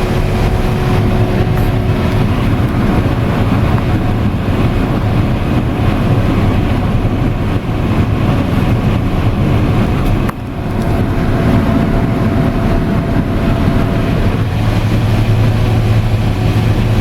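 Combine harvester running while harvesting corn: a loud, steady drone of engine and threshing machinery with a constant hum. The sound dips briefly a little past the middle, and a deeper hum grows stronger near the end.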